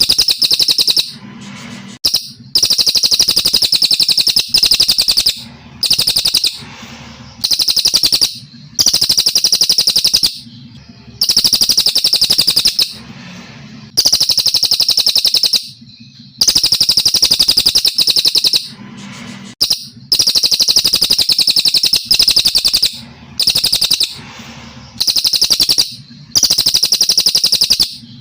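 Brown cililin songbird singing: loud, high, rapidly trilled phrases of one to two seconds each, repeated over and over with short pauses between them.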